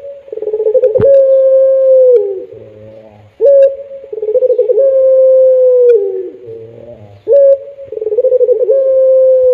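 Puter pelung, a domestic ringneck dove bred for its long coo, calling three times: each call opens with a sharp note, warbles, then holds a long, drawn-out note that drops in pitch at the end.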